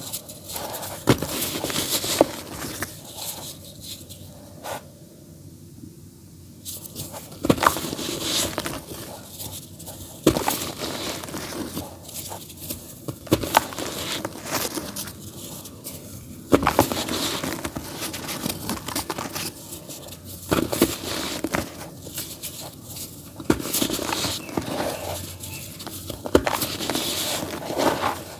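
Dry, earthy dirt being crumbled in a tub: irregular gritty crackling and crunching in uneven bursts, with a short lull about five seconds in.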